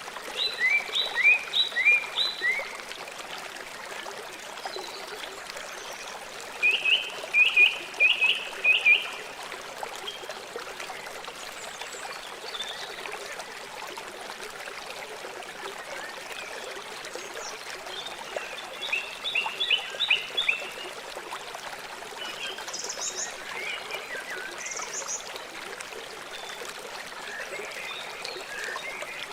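A river running steadily. Several times it is joined by a quick series of four to six short, high animal calls.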